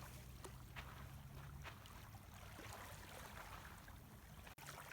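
Faint wash of calm water lapping at the shoreline, with scattered faint ticks over it.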